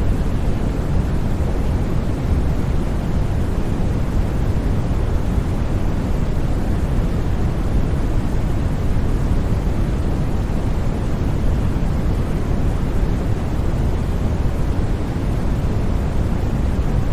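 Steady white noise with no change or interruption, heavier in the low end than the highs.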